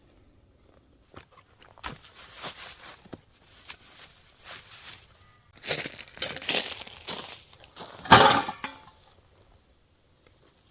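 Irregular rustling and crinkling handling noises, like packaging and camp cooking gear being moved about, with a sharper, louder crackle about eight seconds in.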